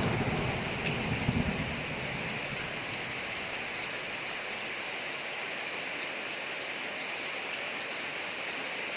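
Steady rain falling on a street, an even hiss. A thunder rumble dies away over the first two seconds.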